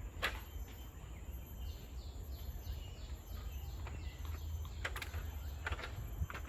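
A bird calling a series of about eight short, high, falling notes, about three a second, through the middle, over a steady low rumble with a few sharp clicks or steps.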